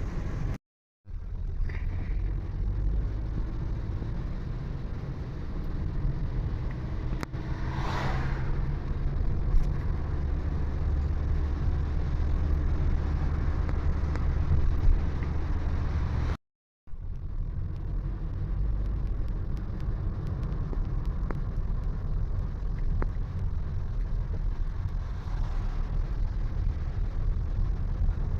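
Vehicle driving on a road: a steady low rumble of engine and tyres. It breaks off twice for a split second, about a second in and about sixteen seconds in. A brief louder swelling sound comes about eight seconds in.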